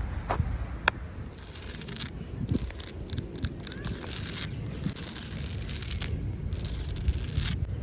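Footsteps through dry forest litter: leaves and twigs rustling and crackling underfoot in uneven patches, with a few sharp twig snaps near the start.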